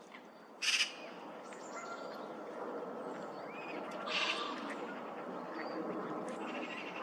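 Two short, harsh bird calls, one just under a second in and one about four seconds in, with faint chirps over a steady background noise.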